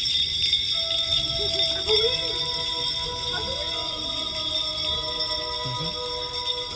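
Many small sleigh bells jingling at once as a carriage full of passengers rings their bells together, with music playing under them.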